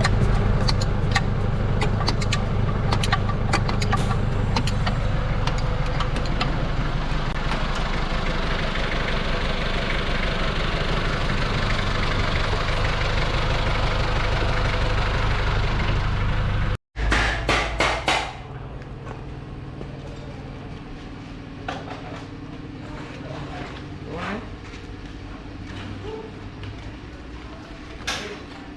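Mitsubishi Pajero's rebuilt 4D56 four-cylinder turbo-diesel engine running steadily. The sound cuts off abruptly about 17 seconds in. A few sharp knocks follow, then a quieter steady engine sound with scattered clicks.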